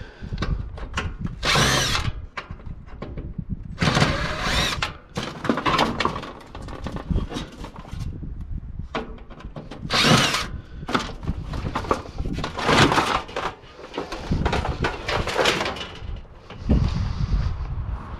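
Power drill-driver running in short bursts, about five times, backing screws out of a water cooler's casing, with knocks and clatter of the panels being handled in between.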